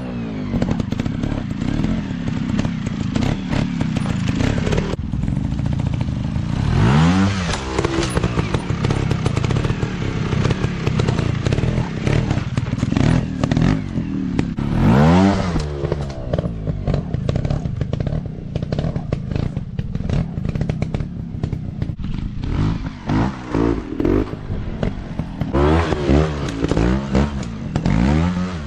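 Dirt bike engine running with sharp throttle revs that rise and fall, one about seven seconds in, another around fifteen seconds, and a quick series of revs near the end.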